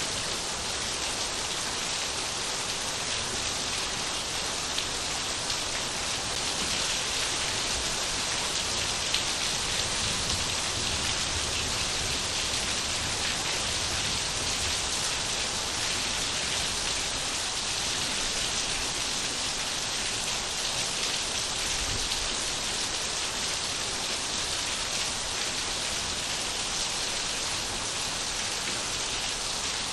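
Steady rain falling, a dense even hiss of many drops pattering on surfaces.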